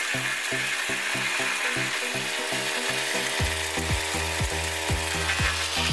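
Wood chipper chewing up branches, a steady grinding noise, under background music with a regular beat; a deep bass beat comes in about halfway through.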